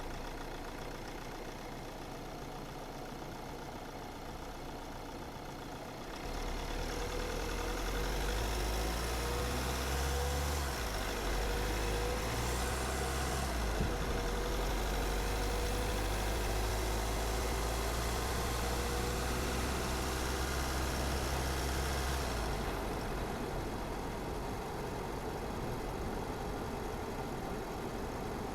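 Car driving on a road, with engine and tyre noise. About six seconds in the low engine rumble grows louder and several rising engine tones come and go, as if the car is pulling harder through the gears. Near the end it eases back to a quieter cruise.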